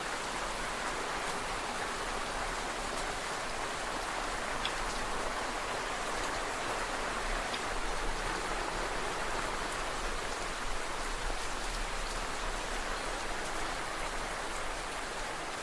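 Steady rain falling, an even hiss with a few distinct drops ticking now and then.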